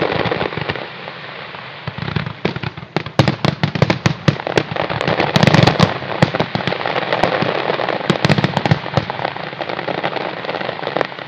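Aerial fireworks bursting and crackling, with rapid strings of sharp pops from about two seconds in until about nine seconds.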